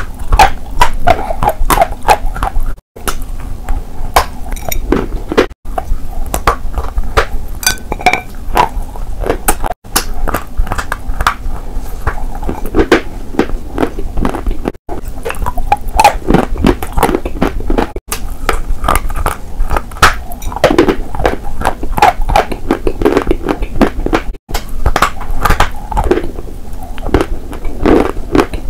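Close-miked biting and chewing of pale eating chalk and clay pieces: a dense run of crisp crunches and crumbly chews. It is broken by about six brief, abrupt silent gaps.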